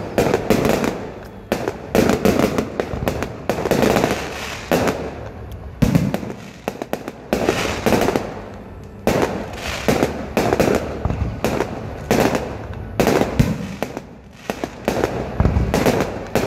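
Fireworks display: aerial shells bursting in rapid volleys, dense runs of bangs several a second with short lulls between them.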